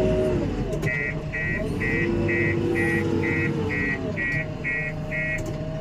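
Heavy machinery at work: a diesel engine's revs dip and climb twice as it works under load, while a reversing alarm beeps steadily about twice a second, ten beeps starting about a second in.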